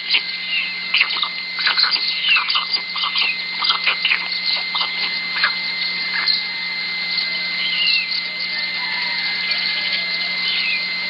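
Birds calling: many short, irregular chirps and clicks over a steady thin high tone and a low hum.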